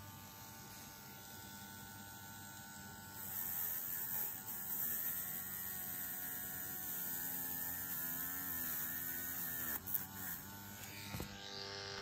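Dremel rotary tool with a wire brush running steadily, polishing rust off small model-car axles. It gets louder about three seconds in, its pitch sags briefly under load near the end, and there is a single sharp click about ten seconds in.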